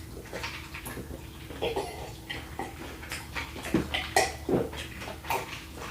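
Mouth sounds of close-up eating: a string of short, wet smacks and clicks from chewing.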